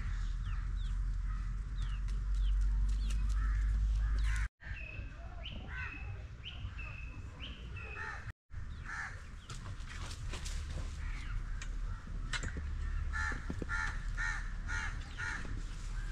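Birds calling with short, repeated calls: some drop in pitch, and a quick run of about three calls a second comes near the end. A steady low rumble lies underneath, and the sound cuts out briefly twice.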